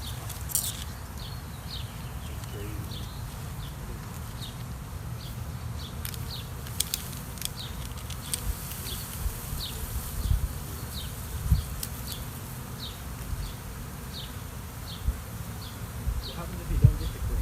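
Honey bee swarm buzzing around the swarm catch, with a short high chirp repeating about every half second to second.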